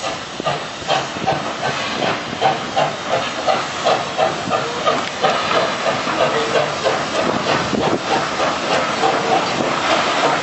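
SAR 207 steam locomotive chuffing as it pulls away, its exhaust beating in an even rhythm of about three to four puffs a second over a steady hiss of steam.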